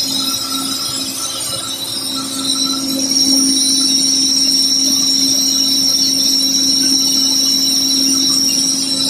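Simba S7D long-hole drill rig running, a steady loud machine drone with a high-pitched whine over it, growing louder about three seconds in.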